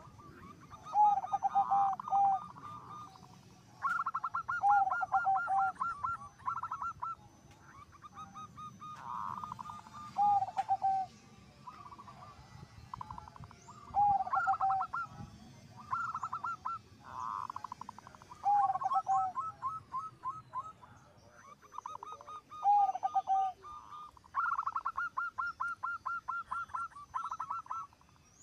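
Zebra doves cooing: repeated phrases of rapid notes, many ending in a few lower, drawn-out coos, with phrases from more than one bird overlapping.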